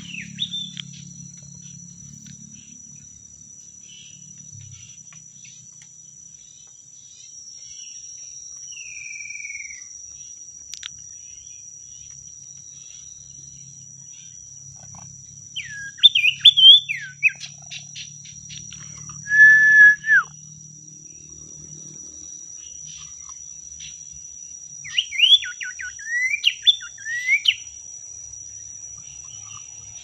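Common iora calling: a few sharp chirps with falling sweeps about halfway through, then a single held whistle, then a quick run of chirps near the end. Under it all is a steady high-pitched insect drone.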